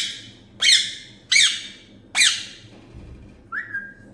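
Pet green parrot squawking: four loud, harsh calls in quick succession, followed near the end by a short whistled note that rises and then holds.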